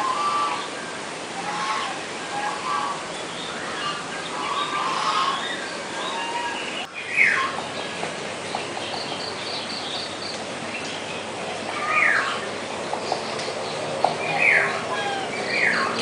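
Birds calling: four clear whistled calls that slide down in pitch, spread over the second half, and two short runs of rapid high chirps. Voices talk underneath in the first few seconds.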